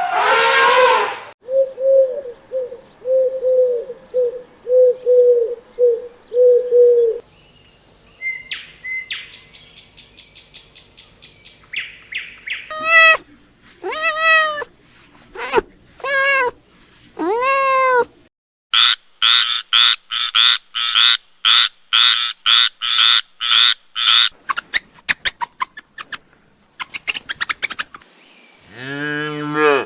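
A string of different animal calls one after another. It begins with a run of short, low, evenly spaced calls and then high chirps. Four long calls that rise and fall follow, and it ends with fast, even high-pitched pulsing and rapid clicking.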